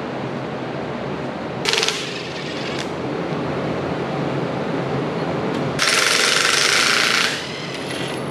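Impact wrench hammering on bolts in two bursts: a short one about two seconds in and a longer one of about a second and a half near the end.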